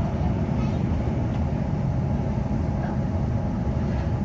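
Inside a Queensland Rail NGR electric multiple-unit train, a steady low rumble of the train running along the track.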